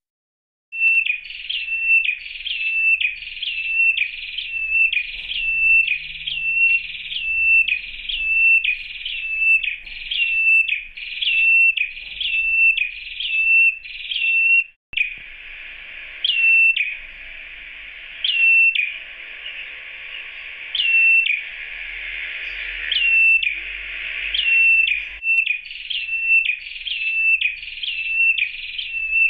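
Red-headed ciblek (prenjak kepala merah), a small cage bird, calling over and over with a short, sharp, high note about one and a half times a second. Midway it switches for about ten seconds to a continuous buzzing trill broken by an occasional sharp note, then goes back to the repeated calls. This is the male's call to a female, used as a lure sound.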